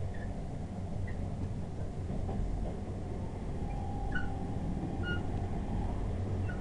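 A passenger train running at speed, heard from inside the carriage: a steady low rumble of wheels on track, with a faint held whine midway through and a few faint short high squeaks.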